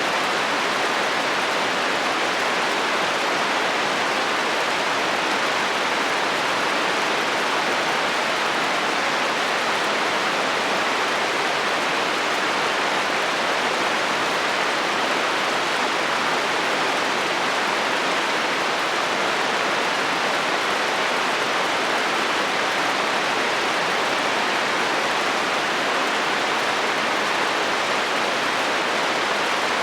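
Steady rain drumming on a metal roof: an even, unbroken hiss with no thunder.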